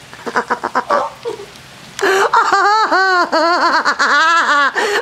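A person laughing: a few short giggles at first, then from about halfway in a loud, rhythmic run of laughs at about three a second.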